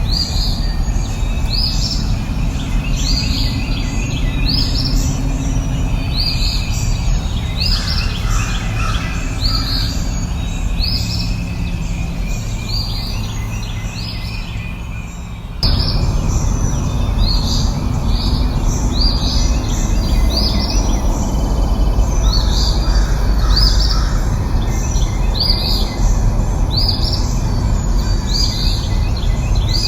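A songbird repeating a short, high, downward-sweeping chirp about once a second over a steady low rumble of background noise; the sound jumps abruptly louder about halfway through at a splice.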